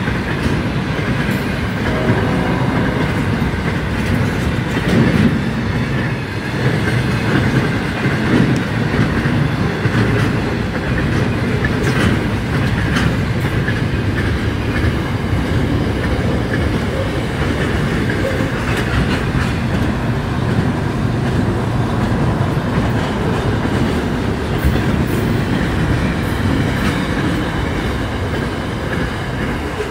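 The Ghan passenger train passing close by at night. Its carriages give a steady loud rumble of wheels on rail, with scattered clicks and clatter as the wheels cross rail joints.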